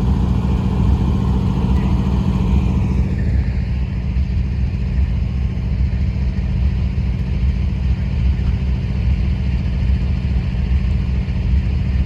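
Diesel locomotives of a Union Pacific freight train passing close by with a steady, heavy low rumble. A higher whine falls in pitch about two to three seconds in.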